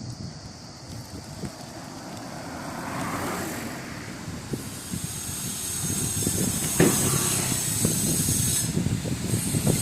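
Wind buffeting the microphone of a moving bicycle, with the sound of a passing vehicle swelling and a hiss building in the second half. There is a single sharp click about seven seconds in.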